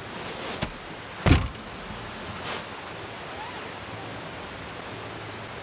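A single heavy thump about a second in, with a couple of lighter knocks around it, over a steady background hiss.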